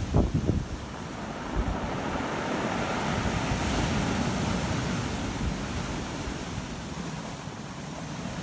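Heavy surf breaking and washing up a stony shore, swelling and easing, with wind buffeting the microphone in gusts near the start.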